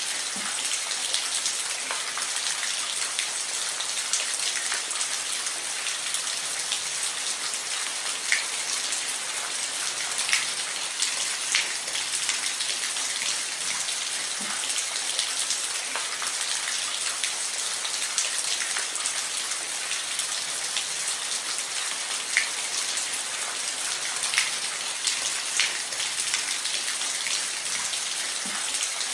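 Steady rain falling on a roof: an even hiss with individual drops ticking now and then.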